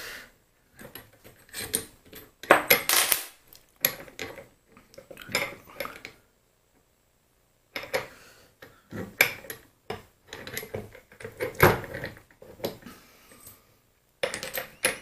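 Small metal lathe parts and tools clinking and knocking against each other and the bench while a mini lathe's apron is handled and adjusted. The sounds come in irregular bursts, with a pause of about a second and a half in the middle.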